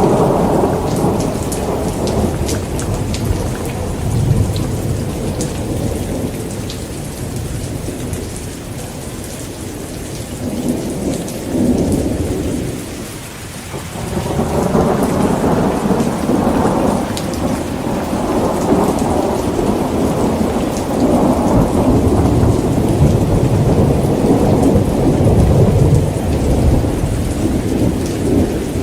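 Heavy rain pouring steadily, with rolling thunder rumbling underneath; the rumble fades about halfway through, then builds again and keeps rolling to the end.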